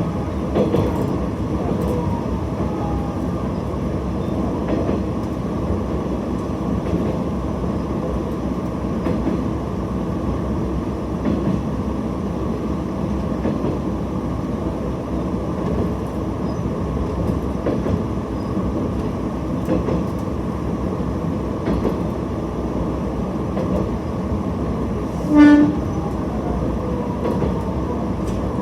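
Diesel railcar running along the line, a steady drone with faint clicks from the rail joints every couple of seconds. About 25 seconds in, it gives one short blast of its horn.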